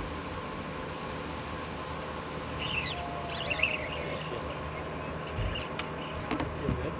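Birds chirping a few times about three seconds in, over a steady hum and outdoor haze, with a few light knocks and low thumps on the boat near the end.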